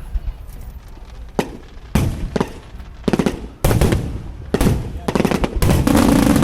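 Aerial fireworks exploding: separate sharp bangs every half second or so, then a quick rapid-fire volley of bangs and crackle over the last second and a half.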